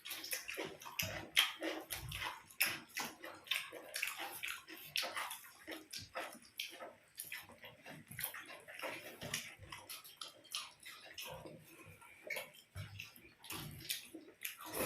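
Close-up eating sounds: wet chewing and mouth noises, with many small irregular clicks.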